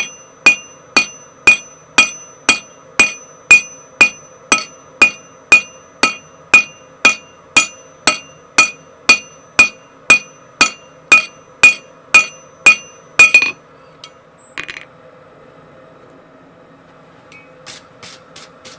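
Hand hammer forging steel on an anvil at a steady two blows a second, each blow ringing. The hammering stops about 13 seconds in, followed by a single knock and a few light clinks near the end, over a faint steady hum.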